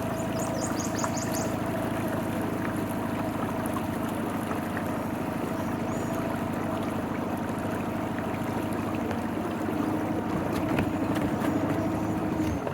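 Small outboard motor on a dinghy running steadily at low speed, with water washing past the hull. It gets a little louder for a couple of seconds near the end.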